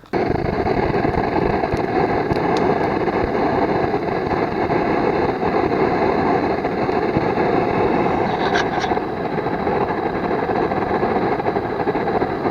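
An engine running steadily, starting abruptly and holding an even note throughout, with a couple of faint clicks about two-thirds of the way in.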